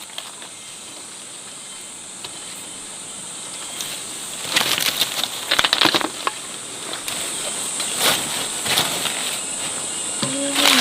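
Steady high-pitched insect buzz, with bursts of rustling and clicking about four and a half to six seconds in and again around eight seconds.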